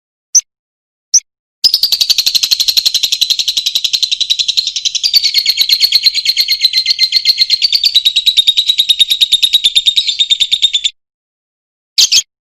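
Lovebird calling: two short chirps, then a long, very fast chattering trill (the 'ngekek' song) lasting about nine seconds, then one more short chirp near the end.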